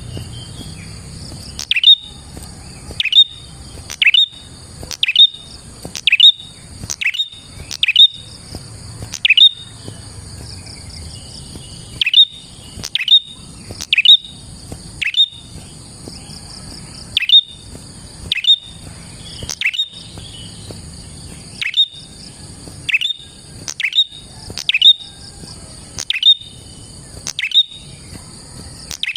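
Prenjak (a small prinia) calling: sharp, loud chirps that drop quickly in pitch, repeated about once a second at an uneven pace. A steady high insect drone runs beneath.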